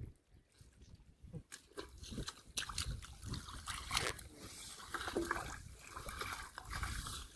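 Splashing and sloshing in shallow muddy water, with irregular sharp knocks and squelches, getting busier after about a second and a half.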